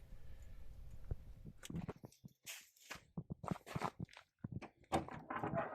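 A run of short, irregular light knocks and thuds, starting about two seconds in after a faint low hum and a single click.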